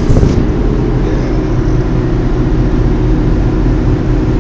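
Car driving at highway speed, heard from inside the cabin: a steady low drone of engine and road noise.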